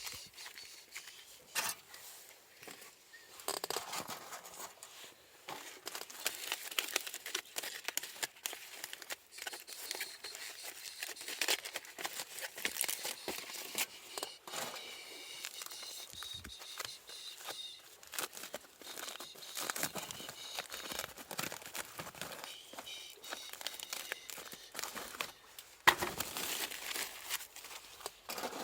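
Wrapping crinkling and crumpling in a long irregular run of small crackles as it is handled, with one sharper snap near the end.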